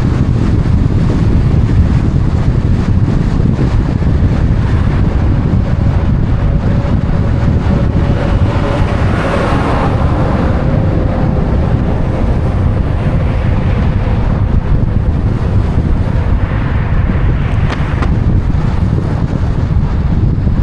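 Loud, steady low rumble of wind buffeting the microphone, mixed with traffic noise. A faint steady hum comes in near the middle and fades a few seconds later, with a brighter swell about nine seconds in.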